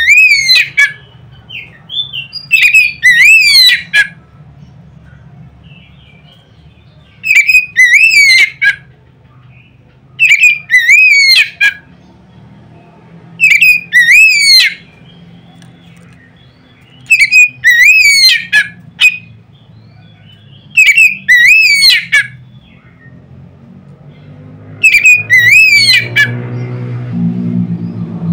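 Oriental magpie-robin (kacer) song: loud phrases of sharp notes sweeping quickly up and down, repeated about every three to four seconds, about eight phrases in all. A low hum runs underneath and swells near the end.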